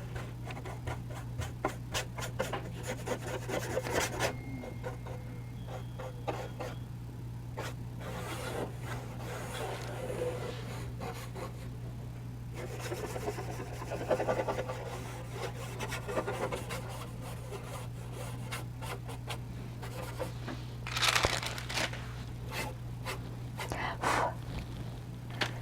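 Drawing tools working on charcoal paper: scattered light scratching and tapping strokes with a few longer rubbing passes, over a steady low electrical hum.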